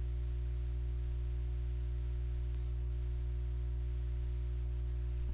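Steady low electrical hum with a single faint click about two and a half seconds in.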